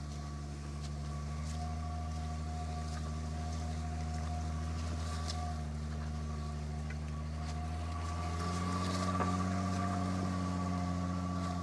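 The Audi A6 C5 2.8 Quattro's petrol V6 running at low revs as the car crawls up a rough dirt track. About eight seconds in the engine note rises a little and grows louder as the car comes closer.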